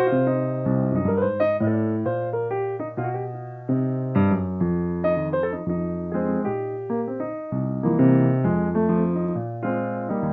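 Live solo piano playing a flowing passage of chords and melody, notes struck and left to decay.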